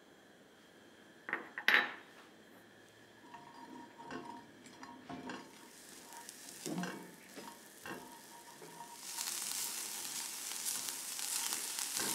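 Chopped onion and garlic sizzling as they are sautéed in chicken fat in a pan, with a utensil clinking and scraping against the pan as they are stirred. Two sharp knocks about a second and a half in are the loudest sounds, and the sizzle grows louder from about nine seconds in.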